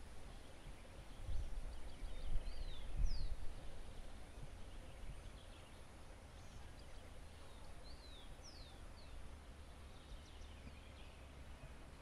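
Birds calling: short whistled notes that sweep quickly downward, in two clusters, the first about two to three seconds in and the second about eight seconds in, with fainter chips between. Beneath them runs a steady low rumble, with a few low thumps in the first few seconds.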